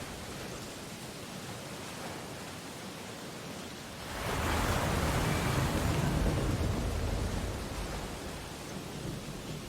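Ocean surf washing on a beach: a steady wash of water, with a wave breaking about four seconds in that swells to a louder rush and then slowly fades back.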